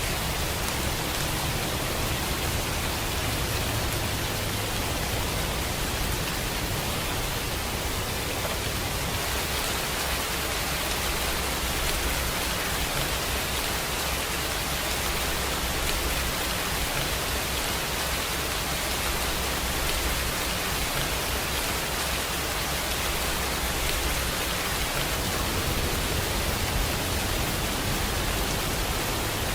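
Steady rainfall, an even hiss with no single drops or other events standing out, and a low rumble underneath.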